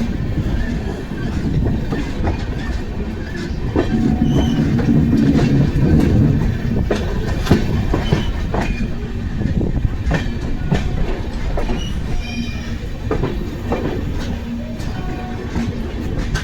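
Passenger train running on the rails: a steady low rumble with the wheels clacking over rail joints and a few brief high wheel squeals.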